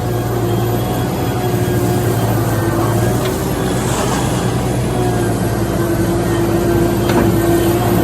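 Heavy machine's engine running steadily at a constant pitch, loud and unbroken.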